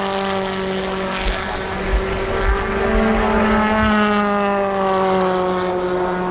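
British Touring Car Championship cars passing at racing speed, their engines at high revs; the engine note falls as one car goes by, and a second car's note rises and then falls about three to four seconds in.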